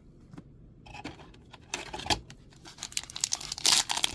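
Plastic booster pack wrapper being torn open and crinkled, in a run of crackling rips that grows louder toward the end.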